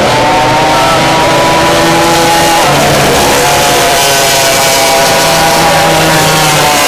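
Racing outboard motors of unlimited-class powerboats running at high revs, several engines at once at different pitches, one dropping in pitch about two and a half seconds in.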